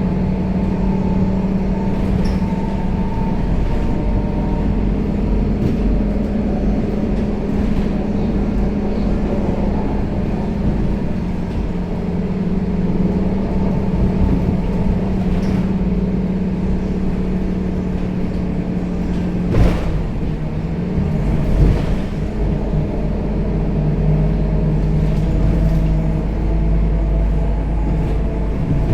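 Scania K270UB city bus under way, heard from inside: its diesel engine runs at a steady pitch, then the engine note shifts about two-thirds of the way through. A couple of short knocks from the bus body come around that change.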